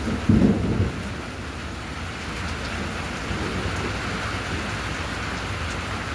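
Steady rain falling, a continuous even hiss. A short low rumble comes about half a second in.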